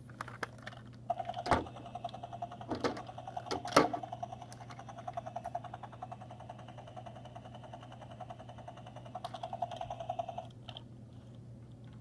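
Small battery motor of a toy helicopter whirring with a fast, even clicking for about nine seconds, starting about a second in and cutting off near the end. Two sharp plastic knocks come near the start.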